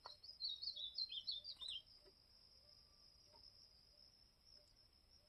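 Ultramarine grosbeak (azulão) singing one short phrase of clear whistled notes that step down in pitch, lasting under two seconds. A steady high insect note runs underneath.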